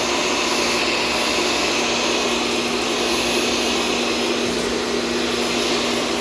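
Shark upright vacuum cleaner running steadily while vacuuming a hard floor: an even rush of suction and motor noise with a constant low hum.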